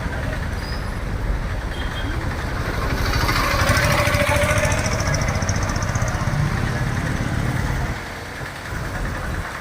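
Motor vehicle engine rumbling close by, growing louder about three seconds in as it passes, then easing off.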